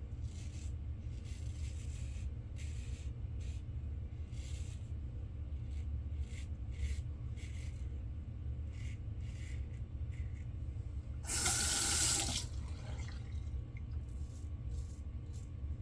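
Short scratchy strokes of a safety razor scraping across lathered stubble, over a steady low hum. A water tap runs for about a second near the two-thirds mark, rinsing the razor.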